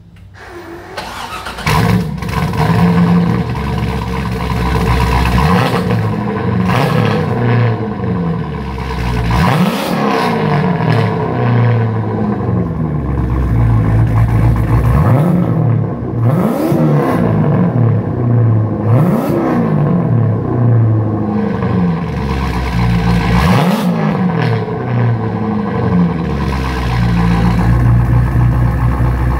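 STS twin-turbo C6 Corvette's LS2 V8 starting about a second and a half in through Blackhorse Racing 3-inch mufflers, then idling loudly with about five quick blips of the throttle, each rising and falling in pitch.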